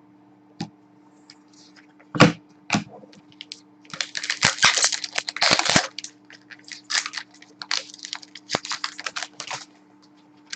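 Trading-card packs and cards being handled: a few separate clicks and taps, then two stretches of crinkling and rustling as wrappers are torn and cards are shuffled. A faint steady low hum runs underneath.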